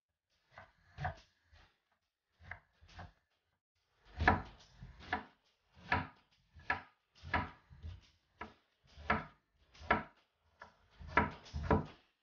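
Kitchen knife slicing through a raw banana flower and knocking on a wooden cutting board. A few spaced cuts come first, then from about four seconds in a steady run of cuts, roughly three every two seconds.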